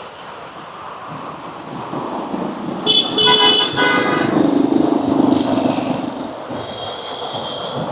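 Road traffic passing with a vehicle horn honking for about a second, three seconds in, followed by the low sound of a vehicle engine going by, and a second, fainter horn near the end.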